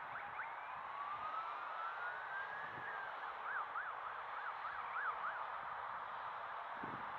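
A distant emergency-vehicle siren: a slow rising wail that switches about three seconds in to a quick yelp, over a steady rushing background.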